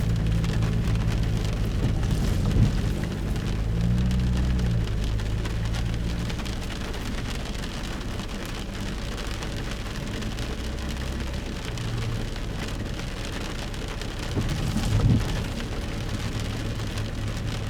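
Steady rain falling, an even hiss throughout. A low rumble runs under it for the first several seconds, and there is a brief louder swell about fifteen seconds in.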